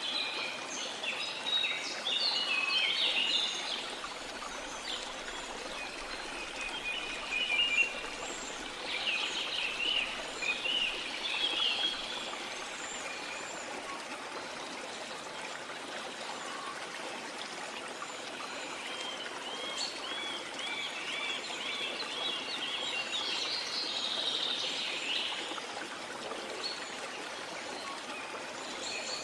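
Steady wash of sea water, with small songbirds chirping over it in bursts: near the start, again around a third of the way in, and a run of quick repeated chirps in the second half.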